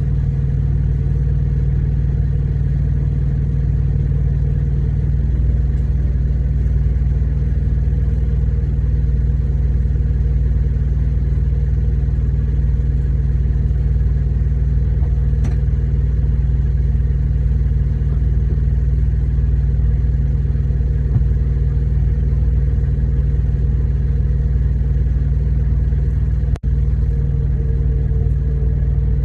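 Truck engine idling: a steady low drone that drops out for an instant about 26 seconds in.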